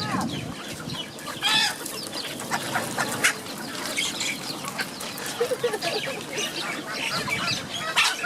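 Chickens clucking and calling, several birds at once in a run of short calls, with a few sharper, louder squawks about a second and a half in, about three seconds in and near the end.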